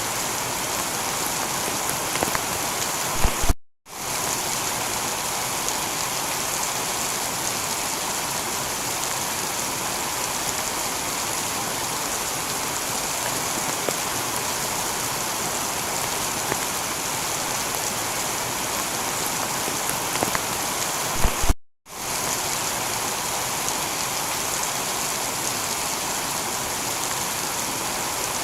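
Heavy rain falling on a tiled roof, a steady even hiss of rain. Twice, a few seconds in and again about two-thirds of the way through, a short low thump is followed by a split-second cut to silence.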